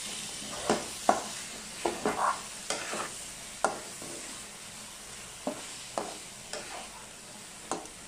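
Chicken pieces sizzling in ghee and spice paste in a non-stick frying pan while being stirred and turned with a spatula, with irregular scrapes and knocks of the spatula against the pan. This is the bhuna stage, the meat being fried down with the spices.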